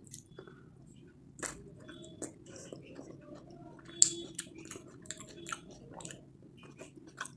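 A person chewing and biting food close to the microphone, with many short irregular clicks and crackles; the sharpest bite comes about four seconds in.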